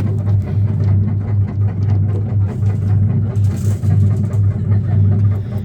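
Electric drive motor of a coin-operated helicopter kiddie ride running, a loud steady low hum with a slight wobble.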